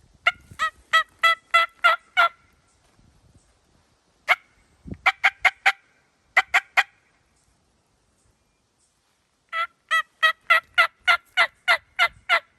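Loud runs of turkey yelps, about three sharp notes a second: a run of about seven, a few scattered notes, then a longer run of about ten near the end.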